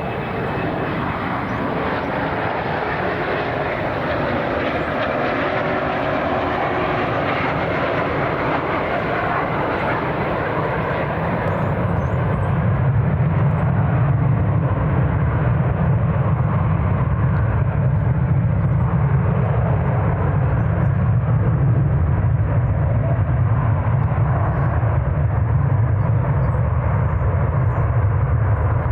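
Jet airliner engines, a loud steady rush with a faint whine at first; about twelve seconds in it turns into a deeper, slightly louder rumble.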